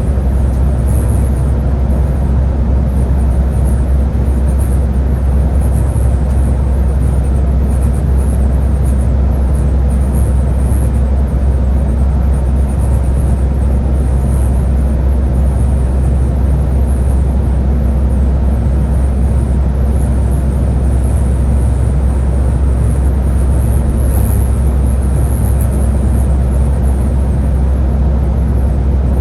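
Scania Higer A30 bus driving along steadily: a constant low rumble of engine and road noise, with no gear changes or distinct events.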